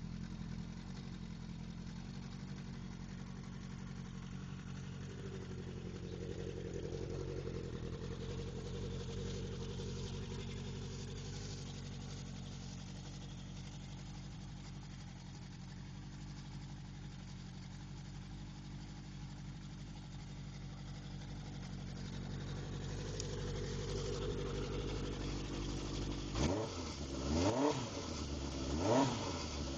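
1981 Honda CB750K's air-cooled inline-four engine idling steadily, then revved with three quick throttle blips near the end.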